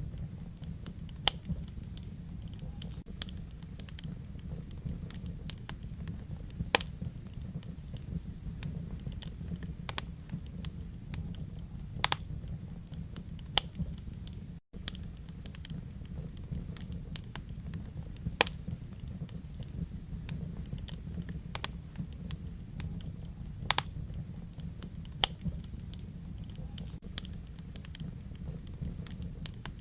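Wood fire in a fireplace crackling: irregular sharp pops and snaps, a few every couple of seconds, over the fire's steady low rumble. The sound cuts out for an instant about halfway through.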